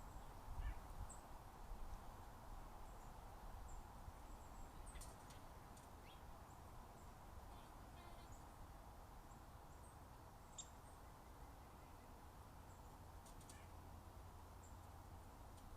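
Faint outdoor ambience with a steady low rumble, broken by scattered brief high-pitched bird chirps and a few soft clicks.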